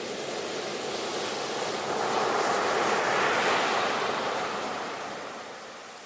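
Ocean waves: one surge of surf builds, peaks about halfway through and washes away.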